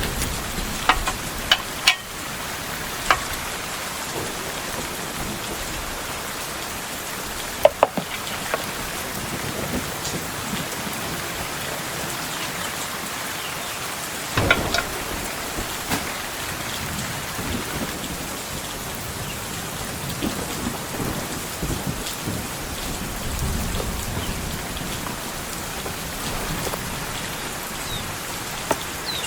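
Heavy rain falling steadily, with a few sharp knocks or clinks on top, the loudest about eight and fifteen seconds in.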